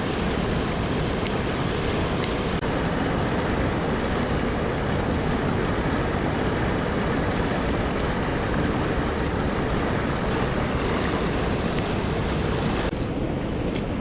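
Mountain stream water rushing steadily over rocks, a loud even roar of running water. Near the end it turns duller, with a few light clicks.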